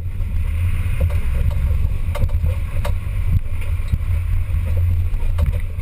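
Off-road vehicle driving over a rough track, heard as a steady low rumble with scattered knocks and rattles.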